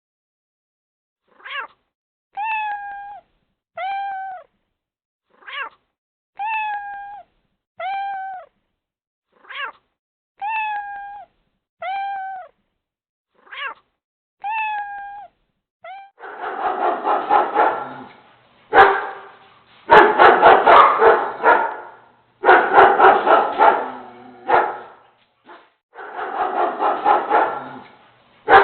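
A cat meowing about a dozen times, each meow short and falling slightly in pitch. From about halfway this gives way to louder runs of rapid dog barking, in bursts of a second or two.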